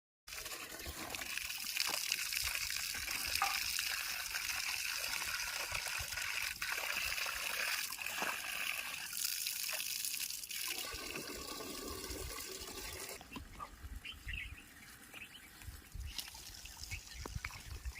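Water running and trickling: a steady hiss that drops away about thirteen seconds in, leaving quieter running water.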